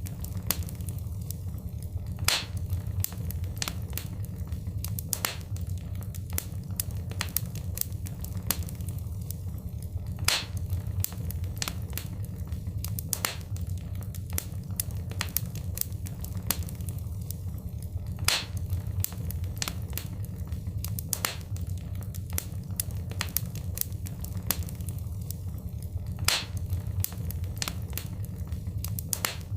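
Fire crackling in a fireplace: frequent sharp, irregular pops and snaps over a steady low rumble.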